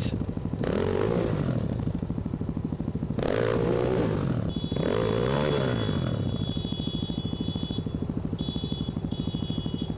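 Dirt bike engines revving up and falling back in several surges. From about six and a half seconds in, a motorcycle horn sounds in a long blast, then in short pips.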